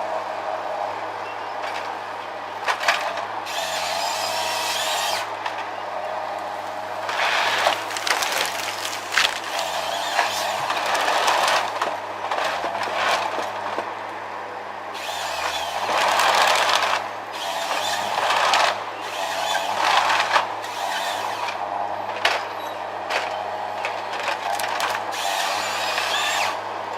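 Tree-felling machine running with a steady engine hum, and repeated louder bursts of harsher noise, each lasting a second or so, as it cuts and handles the tree.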